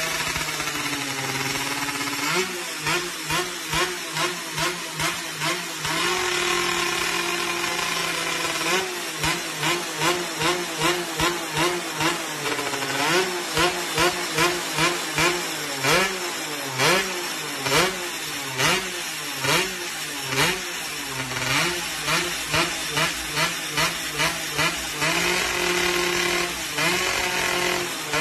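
Yamaha F1ZR's single-cylinder two-stroke engine running through a KEN2 racing exhaust. It idles steadily at first, then is blipped over and over, about once a second, its pitch rising and falling with each blip, before settling back to idle near the end.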